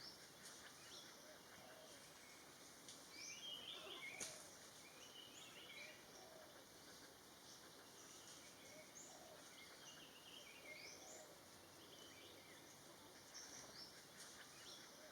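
Faint, scattered bird chirps and short calls over a low background hiss of forest ambience, busiest about three to four seconds in.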